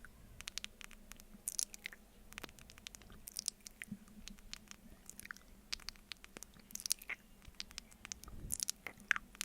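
Close-miked mouth sounds of eating honey off a spoon: wet, sticky smacks and clicks, coming in irregular small clusters about once a second.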